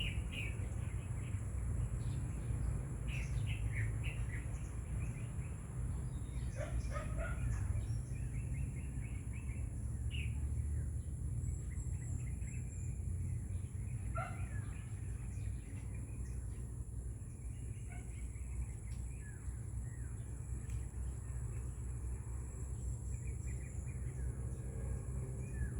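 Birds chirping in short, scattered calls over a steady low rumble, with a thin steady high-pitched whine underneath.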